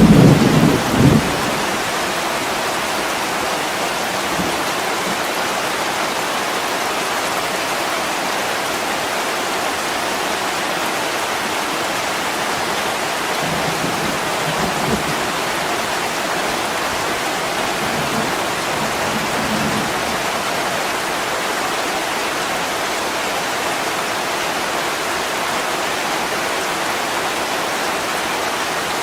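Steady heavy rain pouring on a window pane. A low thunder rumble dies away in the first second or so, and two fainter low rumbles come near the middle.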